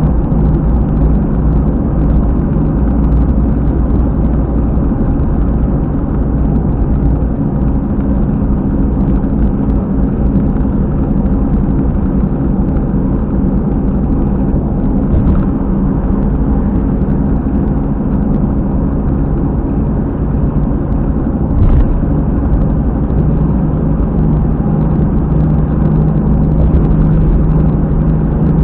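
Car at highway speed, heard through a dashcam, with a loud steady low rumbling "boko-boko" noise from the rear wheel: the sign of a failed wheel hub bearing, apparently.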